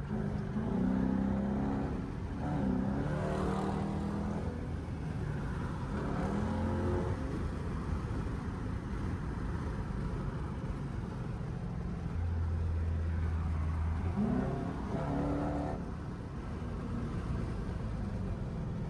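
Straight-piped Dodge Durango exhaust running in traffic. The engine note rises and falls several times as it accelerates and eases off.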